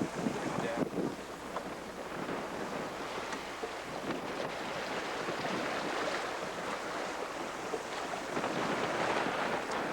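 Wind buffeting the microphone over the steady rush of open-ocean sea water along a sailing yacht's hull, with a few brief low thumps about a second in.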